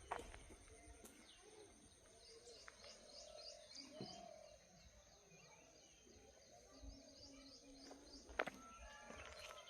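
Faint birdsong from a small bird: two runs of quick, high repeated chirps, several a second. There is a sharp click at the start and a louder one near the end.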